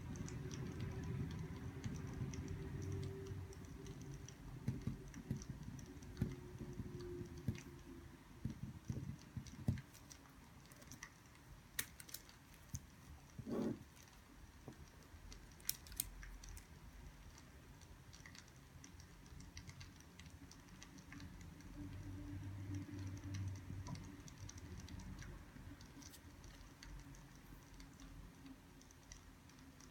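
Scattered light clicks and taps over a low hum, busier in the first ten seconds, with one short pitched sound about fourteen seconds in.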